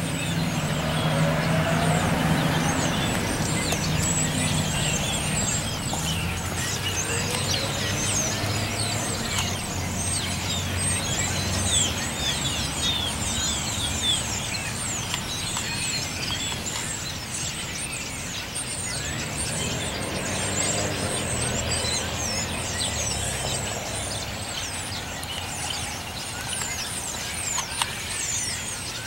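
A large flock of birds chattering together, many short high chirps overlapping in a dense, continuous chorus. A low engine hum sits under it for about the first third, then fades.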